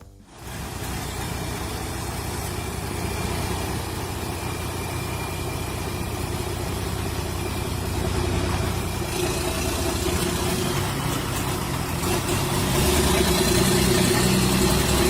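A truck's engine running steadily with a dense noise haze; it grows louder about 13 seconds in.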